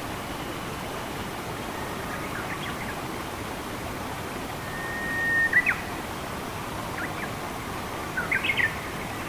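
Steady rush of running water with forest birds chirping over it: a few scattered short chirps, a brief held whistle then two sharp chirps around halfway, and a quick cluster of chirps near the end.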